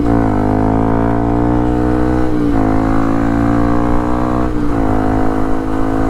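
Yamaha WR155R's single-cylinder four-stroke engine pulling through the gears. Its note climbs gently, then drops with an upshift at the start, again about two and a half seconds in, and again about four and a half seconds in.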